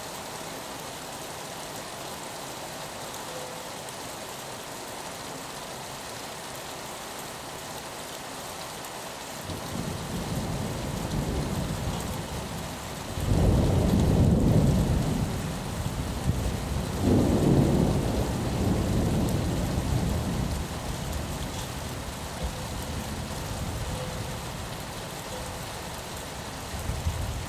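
Steady rain falling, with a long roll of thunder that builds about nine seconds in, peaks twice in loud deep rumbles, and dies away over the next several seconds.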